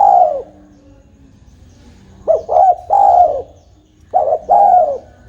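Spotted dove (tekukur) cooing: two full phrases, each two short coos followed by a longer coo that drops at its end, after the tail of an earlier phrase.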